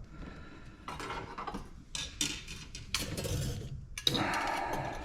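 Small metal scrap parts and hand tools clinking and knocking as they are handled, with a scraping rattle near the end.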